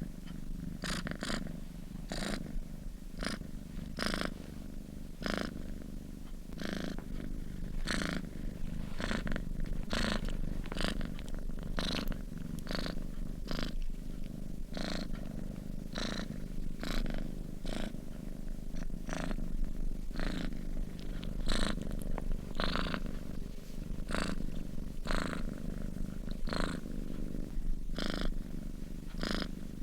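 A sleeping domestic cat purring steadily: a low rumble, with a sharper hissy pulse coming roughly once a second.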